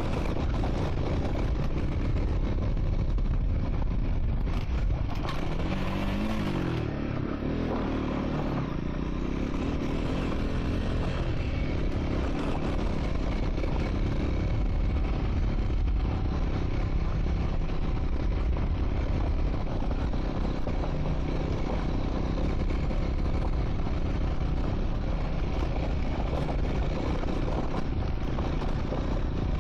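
Triumph Scrambler 400 X single-cylinder motorcycle engine running under way on a gravel track, with a scraping, clattering noise from the tyres and stones. About six seconds in, the engine note drops and then climbs again.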